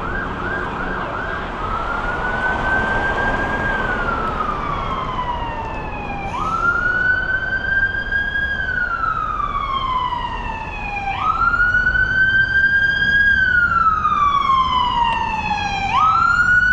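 Emergency vehicle siren sounding a wail: each cycle rises quickly, holds, then falls slowly, repeating about every five seconds. Near the start it switches over from a quicker yelping pattern.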